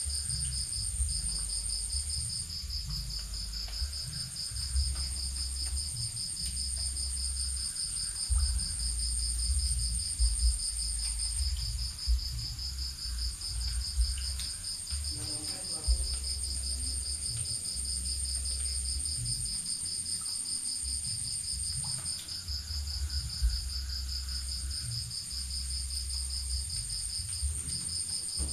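Night chorus of crickets: two continuous high-pitched trills, one fast-pulsing and one higher and steadier, with an irregular low rumble underneath.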